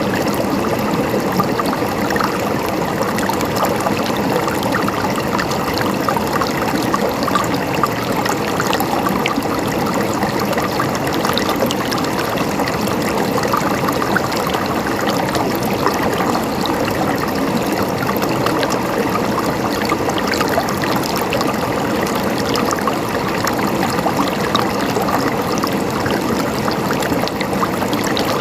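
Running water babbling and trickling steadily, a small stream or cascade flowing over stones.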